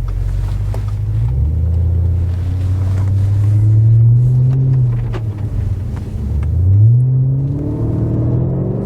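Audi RS5 B8's 4.2-litre V8 engine accelerating. Its pitch climbs for several seconds, drops back around the middle, then rises again sharply.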